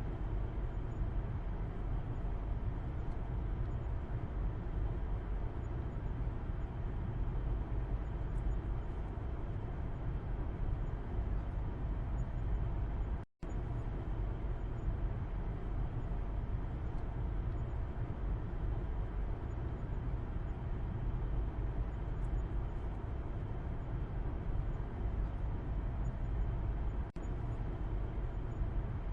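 Road noise inside a moving car's cabin, heard from the back seat: a steady low rumble of tyres and engine. It cuts out for a split second about halfway through.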